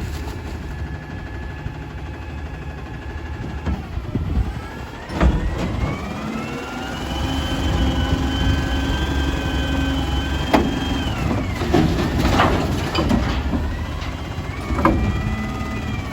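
Garbage truck's diesel engine revving up to drive the hydraulics, about four seconds in, holding a high steady pitch for several seconds and then dropping back, with sharp metallic clanks and bangs as the automated can arm works; the engine starts to rise again near the end.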